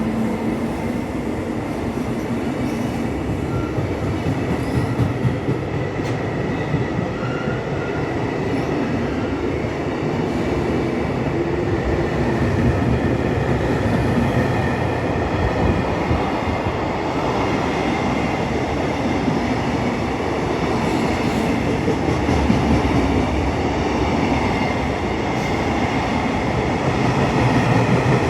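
A train moving on the rails: a steady rumble of wheels and running gear with faint high steady tones, growing a little louder near the end.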